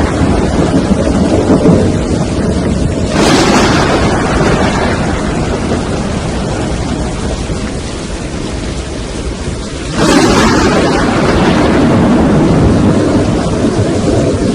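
Loud storm wind from a tornado rushing over the microphone, with rain. The noise changes abruptly twice, about 3 seconds in and again about 10 seconds in.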